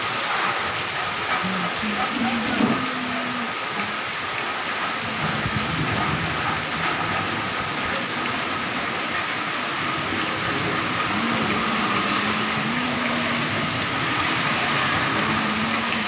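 Heavy rain pouring onto a paved street, a dense, steady hiss of falling water.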